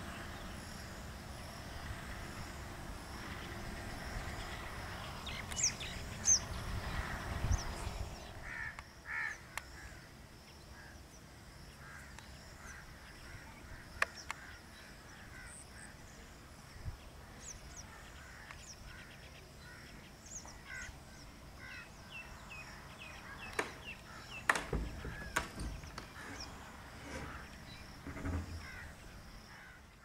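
Birds calling over open farmland, with many short chirps and calls scattered through. A steady rushing noise underneath drops away about eight seconds in, and a few sharp clicks come later.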